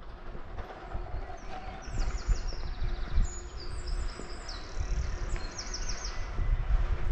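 A songbird singing a run of high, quick phrases and rapid trills for several seconds, over a low rumble of outdoor background noise.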